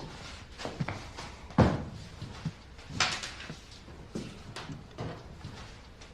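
A series of light knocks and clatter from household objects being handled, the loudest about a second and a half in.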